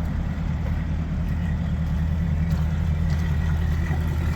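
Mercury ProXS 225 V8 outboard engine idling steadily.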